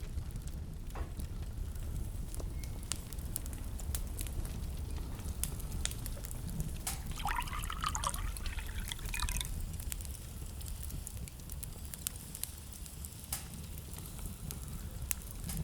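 Wood fire in a fireplace burning with a low steady rumble and scattered sharp crackles and pops. About seven seconds in, a two-second spell of fluttering, higher-pitched sounds rises over it.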